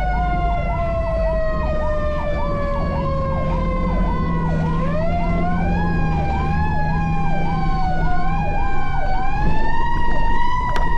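Fire engine sirens running, heard from inside the cab over the truck's low engine rumble. One siren is on a fast yelp, about three sweeps a second. A second, wailing tone sinks slowly for about five seconds, then climbs back up.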